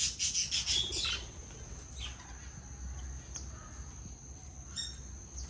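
Small finches chirping in quick succession, then only now and then after about a second, with a thin steady high tone behind.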